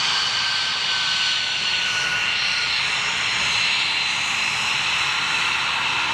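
Jet aircraft engine running loudly in a steady rush with high-pitched whining tones that drift slightly lower in pitch, as a jet passes during a flying display.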